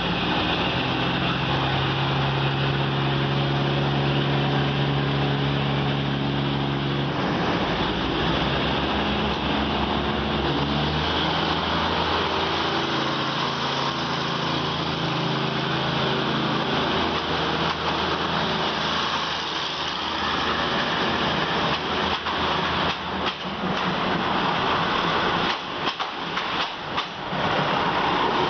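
Diesel train engine running under way, its steady hum shifting in pitch about a third of the way through, with a run of sharp clicks over the last few seconds.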